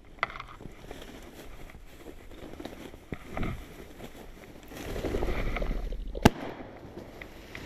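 A single shotgun shot about six seconds in, sharp and loud, just after a second or so of louder rustling noise.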